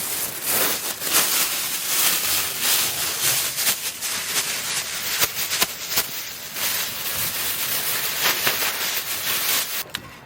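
Food frying over heat, a steady loud sizzle with many small crackling pops, cutting off suddenly near the end.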